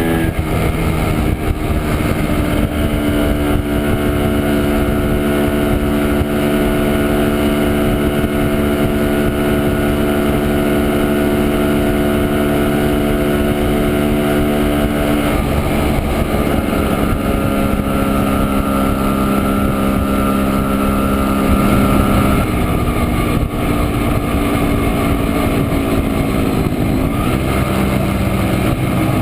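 Two-stroke single-cylinder engine of a 1967 Montesa Impala Comando 175 cc running under way at steady revs. Its pitch falls sharply at the start, steps down about halfway through, and shifts again a little later.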